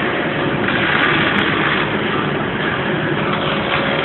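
Steady, loud machinery noise, an even hiss and rumble with no clear rhythm.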